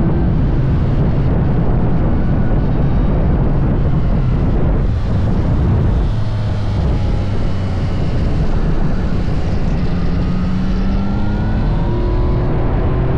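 Yamaha MT-09 SP's inline three-cylinder engine running at speed, with heavy wind rush. The revs drop about six seconds in, then climb again near the end as it accelerates.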